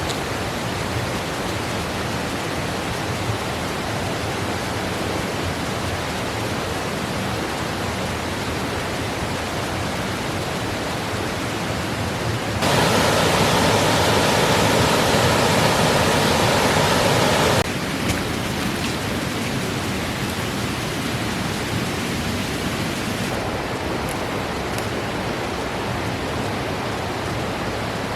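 Stream water rushing over rocks, a steady wash of noise, the creek running full after plenty of rain. About halfway through it suddenly gets louder for roughly five seconds, then drops back just as abruptly.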